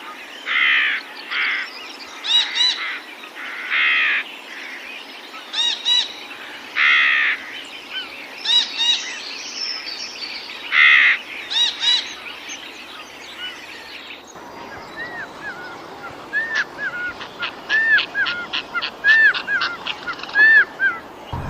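Wild birds calling: repeated harsh, raspy calls alternating with short ringing notes, then, after an abrupt change about two-thirds of the way through, a quick run of short arching whistled notes.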